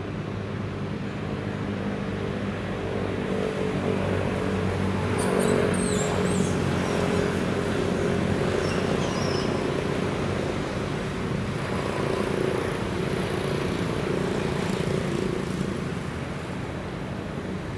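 A motor vehicle's engine running steadily, growing louder over several seconds and easing off near the end, with a few short high chirps about five to seven seconds in.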